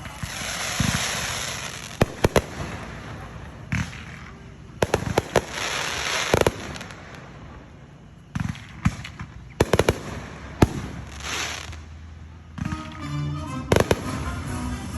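Fireworks going off: a string of sharp bangs, several in quick clusters, with hissing, crackling showers in between. Music plays along in the background.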